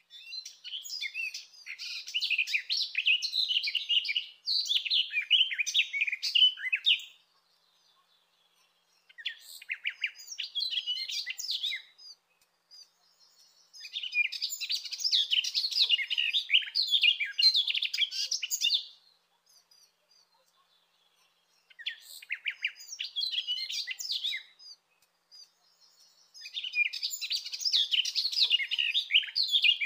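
Garden warbler singing: long, rapid, even warbling phrases lasting several seconds each, broken by short pauses.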